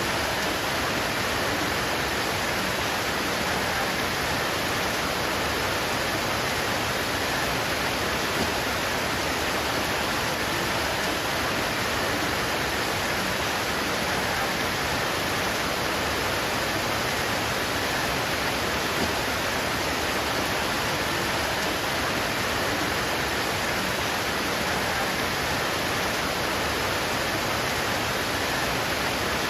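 Steady heavy rain pouring onto leaves, an even hiss with no single drops standing out.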